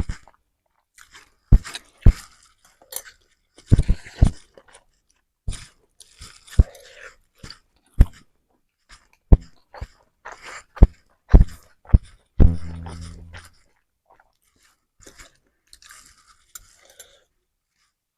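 Mouth sounds of someone eating fried instant noodles with rice: chewing with sharp, irregular smacks and clicks, and a longer low sound a little after twelve seconds in.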